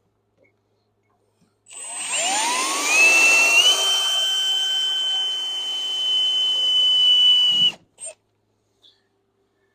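Power drill starting up, its whine rising in pitch, then running steadily for about four seconds before stopping, as it drills a small hole into an old axle seal to pull the seal out.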